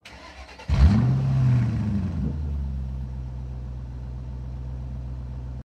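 A car engine starts with a sudden rev about a second in. Its pitch rises and then eases back, and it settles into a steady idle before cutting off abruptly near the end.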